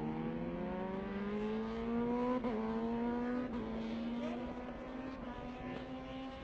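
Racing motorcycle engine accelerating, its pitch climbing steadily, with a gear change about two and a half seconds in and the climb continuing after it.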